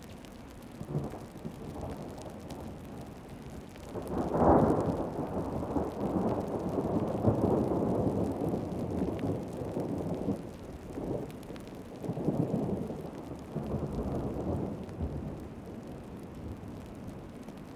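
Heavy tropical rain falling steadily, with a long low rumble of thunder that swells about four seconds in and rolls on in several waves for about ten seconds before fading.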